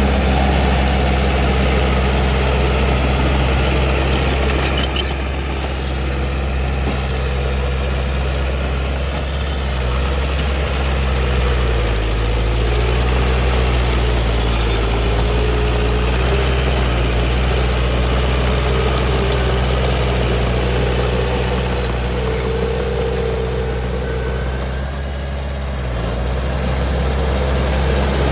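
Bulldozer's heavy diesel engine running steadily at work, its speed and loudness dipping briefly a few times.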